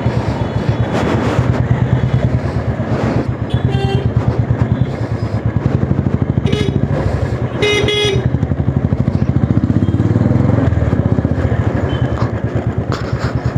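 Motorcycle engine running steadily as it is ridden, with short vehicle horn toots about four seconds in and again, loudest, about eight seconds in.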